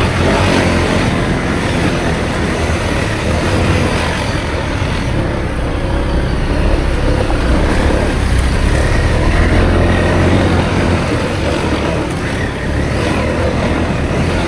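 Motorcycle riding, with a steady engine and road noise and a heavy, fluctuating low rumble.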